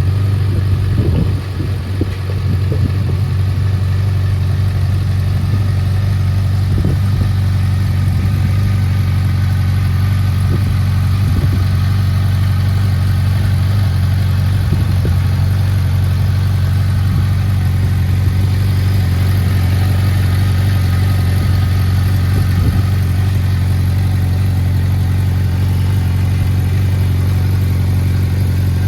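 Suzuki GSF650S Bandit's inline-four engine idling steadily through a Black Widow aftermarket exhaust with its dB killer fitted.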